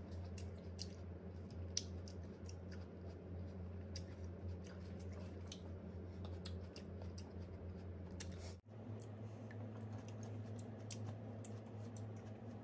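Grapes being chewed close to the microphone: many small wet clicks and squishes, over a steady low hum. The sound cuts out for an instant about two-thirds of the way through.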